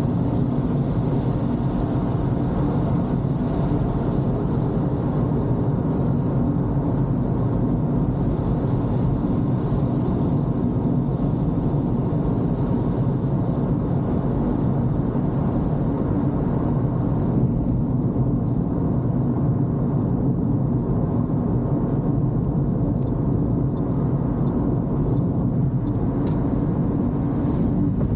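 Steady road and engine hum of a Toyota Corolla heard from inside the cabin while driving on a wet road, with tyre hiss that eases somewhat about two-thirds of the way through and a few faint ticks.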